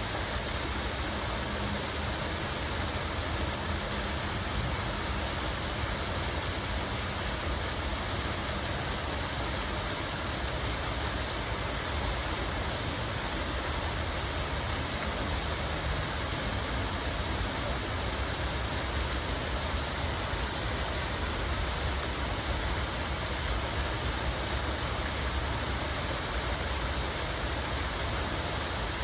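Flowing water making a steady, even rushing sound, with a low rumble underneath.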